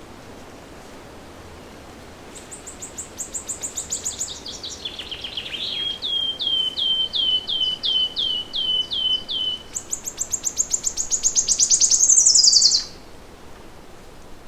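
A songbird singing one long song of several trills. It opens with a fast high trill, slows into a run of repeated notes about three a second, and ends with another fast, high trill that finishes on a falling note. A steady hiss runs underneath.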